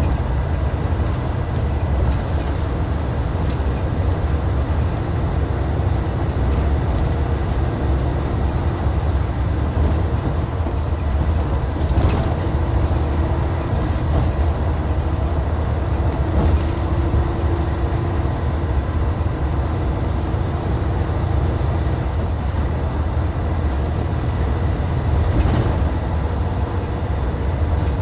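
Hyundai D6CC Powertec 380 six-cylinder diesel engine of a Hyundai Universe Comfort bus running at a steady, unchanging pace, a low drone with no revving. A few faint brief knocks come over it.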